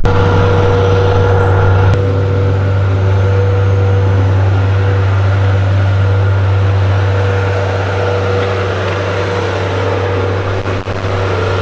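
An engine running steadily: a constant low hum with a steady higher tone above it.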